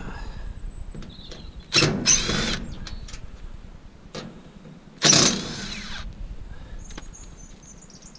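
Two short, loud bursts of metal grating and squealing, about three seconds apart, as a part is worked off a piece of scrap, with small metallic clicks in between.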